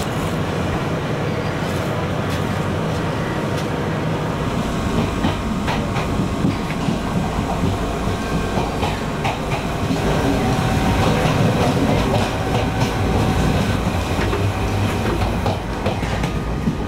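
Mumbai suburban local train running on the Virar line, a steady rumble with the wheels clacking over rail joints; it grows louder about ten seconds in.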